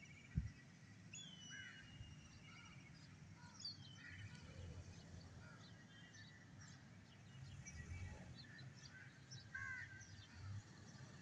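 Faint outdoor birdsong: several birds chirping and calling in short, scattered notes, with one low thump about half a second in.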